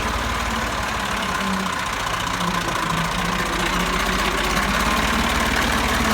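Massey Ferguson tractor's diesel engine running steadily with a knocking chug, growing slightly louder near the end.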